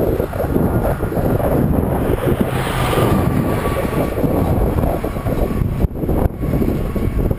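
Wind buffeting the microphone of a camera riding on a moving bicycle, a loud, steady low rumble.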